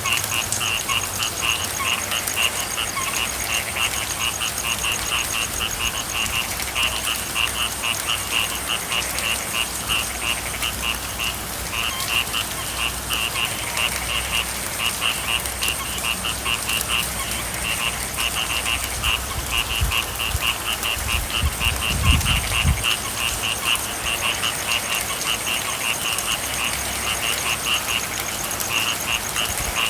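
Frogs calling in rapid pulsed trains that start and stop, over a steady hiss of rain. A brief low rumble comes about two-thirds of the way through.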